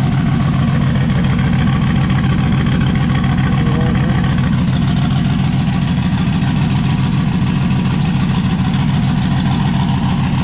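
Turbocharged LS V8 in a Chevrolet S10 pickup idling steadily.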